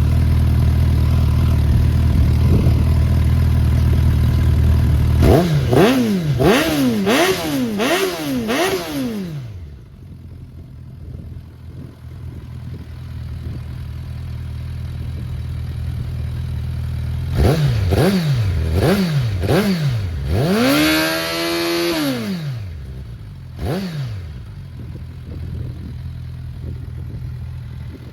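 Suzuki GSF650S Bandit's inline-four engine through a Black Widow aftermarket exhaust with dB killer. It idles, is blipped about five times in quick succession, settles back to idle, then is revved again: three short blips, one longer held rev and a final blip before dropping back to idle.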